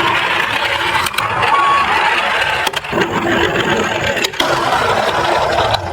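Toy cars rolling down a small slope, their wheels making a steady rattle, with four sharp clicks along the way.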